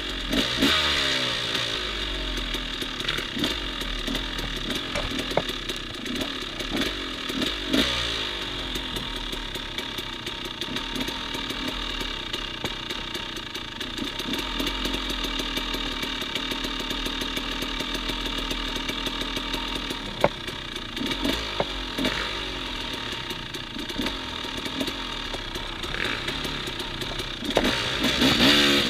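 Enduro dirt bike engine idling, with a few short throttle blips and the revs rising near the end.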